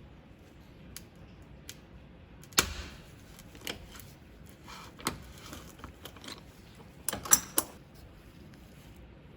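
Sharp clicks and knocks of hard parts and hand tools being handled and set down on a work surface, as a power tool is worked on by hand. The sounds are irregular, with a loud knock a few seconds in and a quick cluster of clicks near the end.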